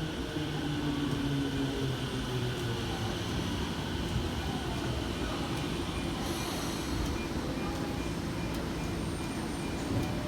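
Tokyo Metro Tozai Line subway train moving at an underground platform: a steady rumble with a low hum in the first few seconds and a short hiss about six seconds in.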